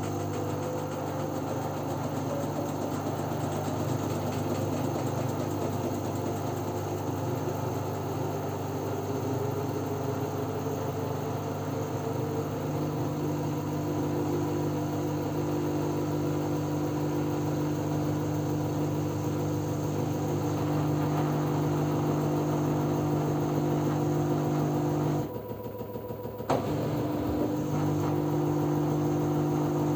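LG F10B9LD front-loading washing machine in its spin cycle: a steady motor hum and whir of the spinning drum, with a tone that slowly rises early on as the drum gathers speed. About 25 seconds in the sound drops away for a second, then picks up again with a click.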